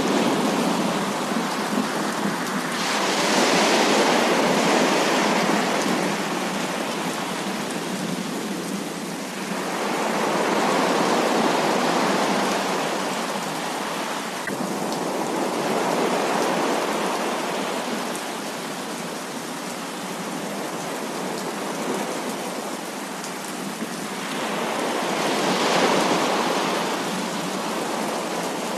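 Heavy rain falling in a steady hiss that swells and eases in slow waves every several seconds.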